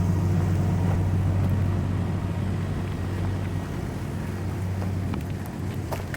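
A vehicle engine idling with a steady low hum, which slowly fades after a few seconds; a few light clicks near the end.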